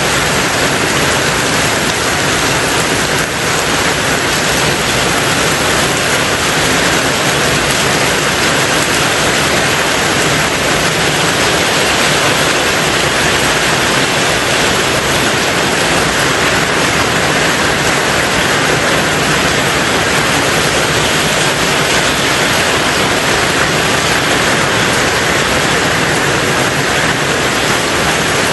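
Rain falling steadily on a tin roof: a dense, even hiss of drops with no single strikes standing out.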